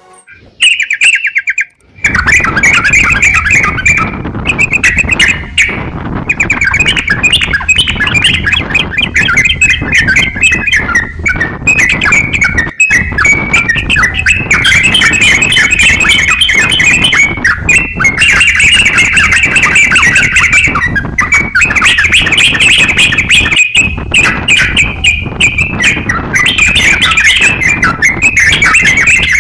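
A crokcokan songbird singing prolifically in loud, rapid chattering phrases, with a short trill just before the song starts in earnest about two seconds in. It is a master song recording for teaching other songbirds.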